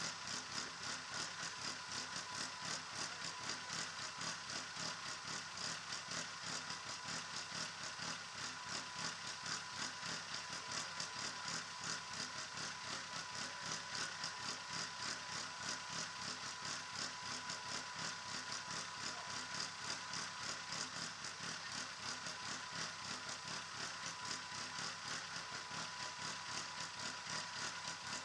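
Volvo 940's 16-valve turbo engine idling steadily with an even, rapid pulse, a thin steady whine running over it.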